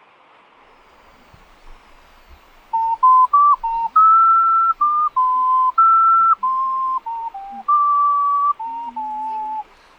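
Ocarina playing a slow melody of clear, pure held notes, starting about three seconds in after faint background hiss. Near the end a lower second line of notes sounds under the melody.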